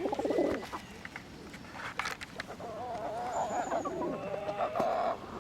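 Several birds calling. There is a low pulsed call at the start, a wavering call from about three seconds in, and brief high trilling chirps.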